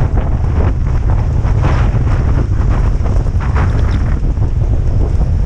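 Heavy wind buffeting the microphone of a moving camera, a dense, steady rumble with scattered rustling and scraping above it, as the dog team runs along the trail.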